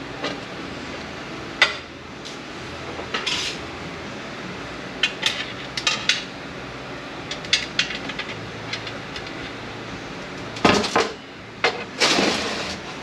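Metal internal parts of an 8L90 automatic transmission clinking and clanking as they are handled and set down during teardown: irregular sharp knocks, one loud clank about a second and a half in and a run of clanks near the end, over a steady low hum.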